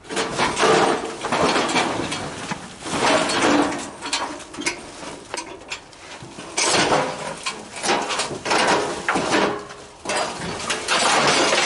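Stripped-down steel barbecue grill being rolled along, its loose metal parts rattling and clanking continuously, with a couple of brief pauses.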